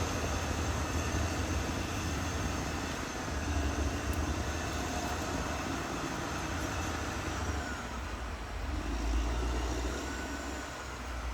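Caterpillar D6R XL bulldozer's diesel engine running under load, a steady deep rumble with a faint high whine above it.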